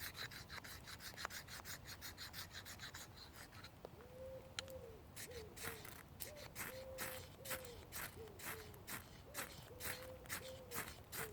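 Knife blade scraping a ferrocerium fire steel in repeated strokes to throw sparks onto wet tinder. The strokes are quick and close together for the first few seconds, then slower and more separate, about two a second, with a faint wavering squeak among them.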